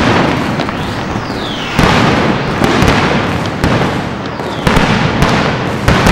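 Aerial firework shells bursting in a display, loud booms about a second apart with crackling and hiss between them.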